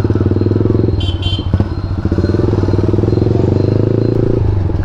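KTM Duke 390's single-cylinder engine running loud through an Akrapovic exhaust with the dB killer removed, while the bike is ridden. The note climbs gradually, then drops suddenly about four and a half seconds in as the throttle comes off. Two short high beeps sound about a second in.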